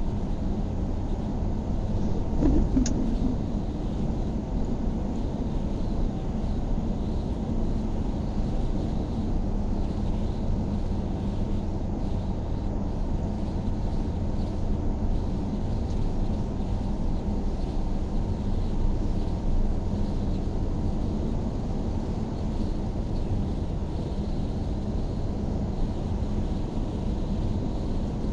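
Steady low rumble of a car being driven, road and engine noise with a faint steady hum, and a brief click about three seconds in.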